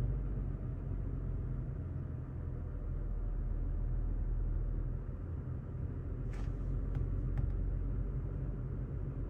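Toyota Tacoma pickup's engine idling steadily, a low rumble heard from inside the cab. A few faint clicks come about six to seven seconds in.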